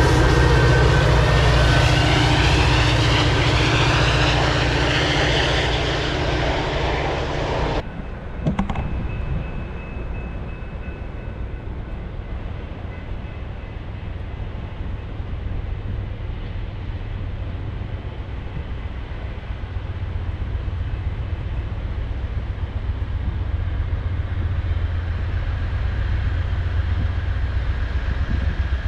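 Passenger train running past close by: loud engine drone and rolling noise with steady tones over it. About eight seconds in, the sound cuts off suddenly to a quieter, steady low rumble that slowly builds toward the end.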